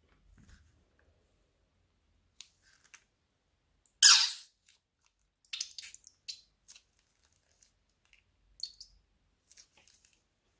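Slime and plastic bag being handled by hand: scattered short sticky clicks and crackles with pauses between them, one much louder crackle about four seconds in.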